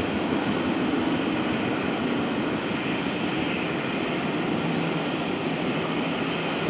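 Steam-hauled train on the move: a steady, dense train noise that eases off slightly toward the end.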